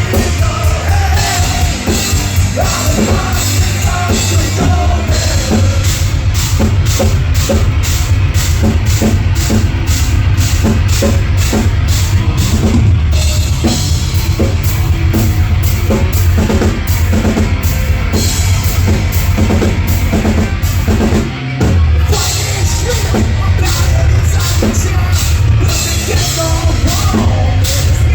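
Live rock band playing loud, with a drum kit keeping a steady, driving beat; the sound drops briefly about three-quarters of the way through before the full band comes back in.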